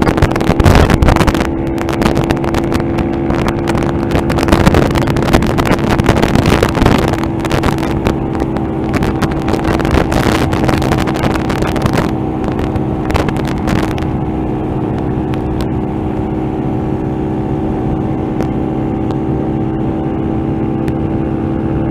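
Motorcycle engine running at a steady speed while riding, with wind buffeting the helmet microphone for the first dozen or so seconds before it eases to a steadier engine note.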